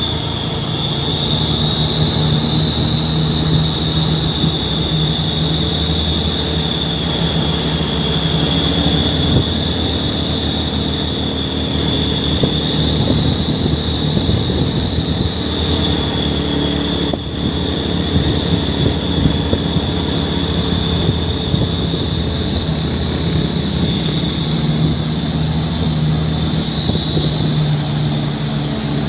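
Heavy truck engine running steadily, with a constant high-pitched whine over it that wavers slightly in pitch.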